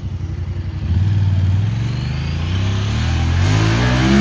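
Engine accelerating hard, its pitch rising and shifting in steps, with rising road or wheel noise near the end.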